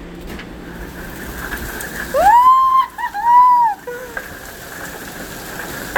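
Heavy rain and hail pounding down in a steady hiss. A person gives two high-pitched cries that rise and fall, about two and three seconds in.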